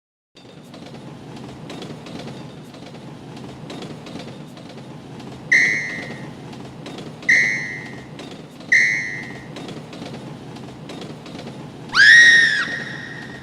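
Three short whistle blasts, evenly spaced, then a louder, longer blast that bends up and falls back, over a steady low rumbling noise.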